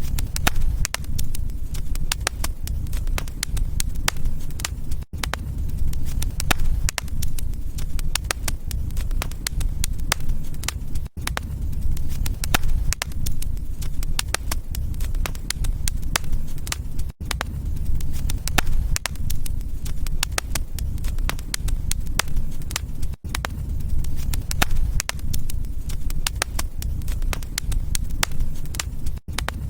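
Wood fire crackling, with many sharp pops and snaps over a steady low rumble. The sound cuts out very briefly about every six seconds.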